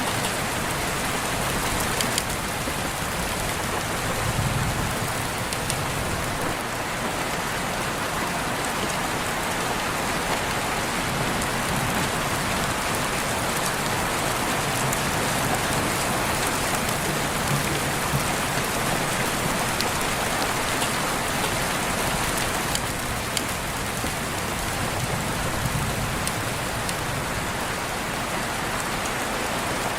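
Steady rain falling, with scattered drops ticking on a hard surface.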